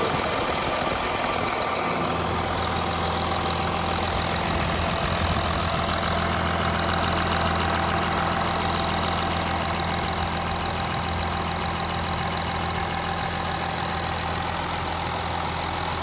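An engine running steadily with a constant low hum, swelling slightly in loudness around the middle.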